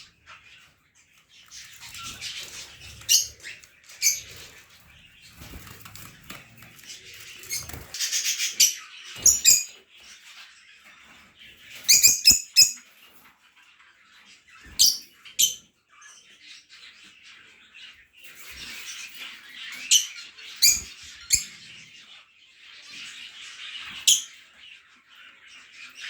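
Caged pet birds chattering continuously, with loud, sharp, short calls breaking through again and again.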